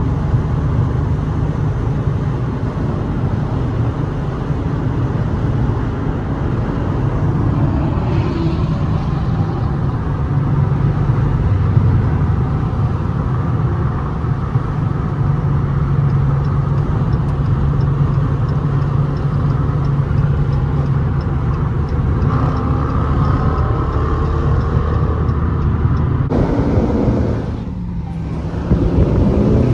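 Dodge Scat Pack's 392 (6.4-litre) HEMI V8 running under way, a steady low exhaust rumble. Near the end it eases off briefly, then picks up again.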